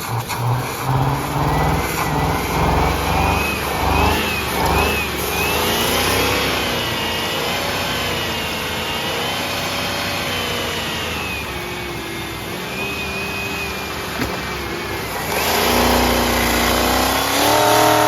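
Ford F-150 engine revving unevenly while it takes in Coca-Cola, its pitch rising and falling. Near the end it revs up hard, then the sound drops away sharply.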